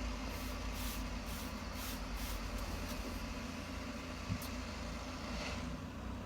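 Trigger spray bottle of mold and mildew remover being sprayed onto a vinyl boat seat: a quick run of short hissing sprays in the first three seconds, one more a little later, over a steady low engine-like hum.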